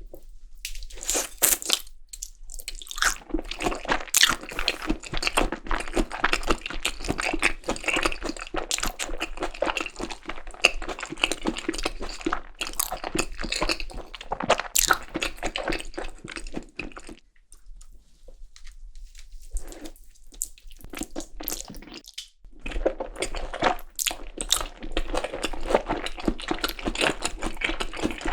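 Close-miked eating sounds of Korean seasoned raw beef tartare (yukhoe): wet chewing and mouth clicks with some crunch. The chewing drops away for a few seconds past the middle, then starts again.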